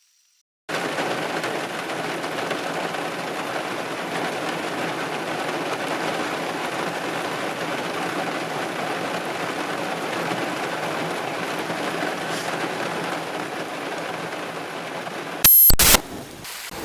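Heavy rain falling steadily, starting abruptly about a second in. Near the end comes a sudden, very loud crack of thunder from a nearby lightning strike, loud enough to overload the recording.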